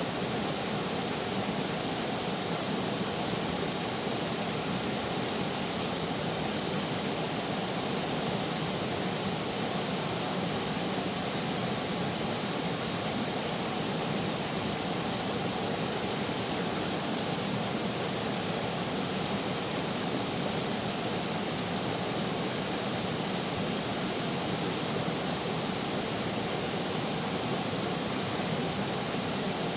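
River water flowing, a steady, unbroken rush with no changes.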